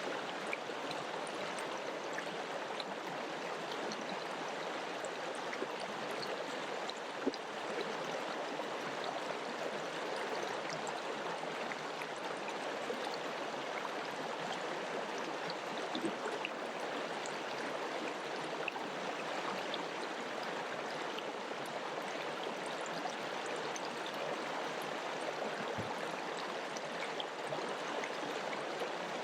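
Mountain river running over rocks: a steady rushing of water with small splashes and gurgles scattered through it.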